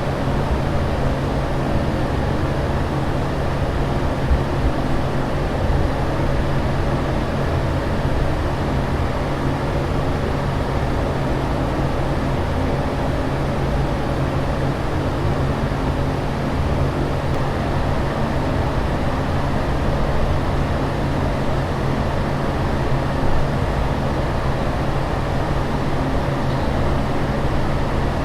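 Steady drone of an airliner cabin in flight: an even rush of engine and air noise with a constant low hum underneath.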